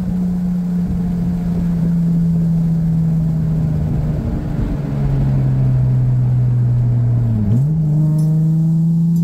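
2004 Nissan 350Z's VQ35DE V6 heard from inside the cabin, running through an aftermarket exhaust (Motordyne ART pipes, resonated Y-pipe, Z1 muffler) at a steady cruise. The engine note drops in pitch about halfway through, then near the end dips briefly and quickly climbs back up.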